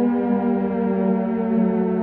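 Nuclear alarm sound effect: one continuous, loud alarm tone with many overtones, its pitch sliding slowly down.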